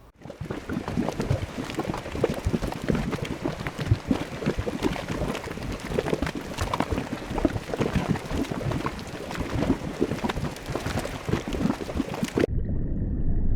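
Water bubbling and splashing in a dense, irregular patter, cut off abruptly near the end by a steady low rumble.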